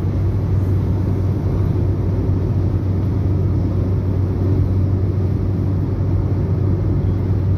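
Steady low drone of a vehicle on the move, engine and road noise heard from inside the cabin, with no break or change.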